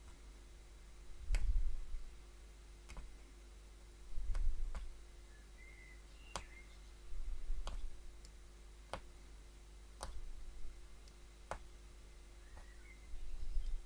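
Punch needle being pushed through taut backing fabric to loop thread, a sharp click with each punch at an uneven pace of roughly one every second or so, with a few soft low thumps from handling the work.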